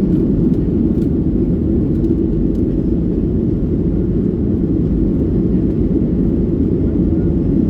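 Steady low rumble of a Boeing jet airliner's engines and airflow, heard inside the passenger cabin.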